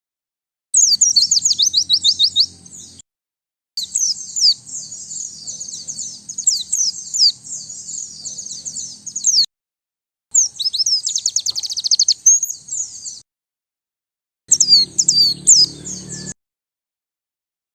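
White-eye (pleci) song: fast, high-pitched twittering in four phrases, each breaking off abruptly into a brief silence. A faint low hum sits under each phrase.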